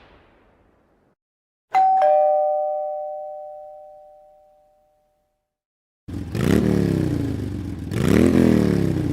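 Two-tone doorbell chime: a ding-dong, high note then a lower one, ringing out over about three seconds. Later comes a loud motor sound that rises and falls in pitch twice, then cuts off suddenly.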